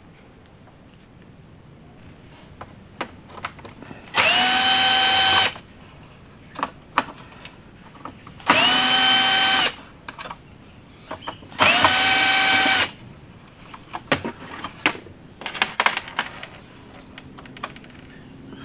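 A small electric power tool run in three short bursts of about a second each. Each time its motor whine rises quickly to a steady pitch. Light clicks and taps come between the bursts.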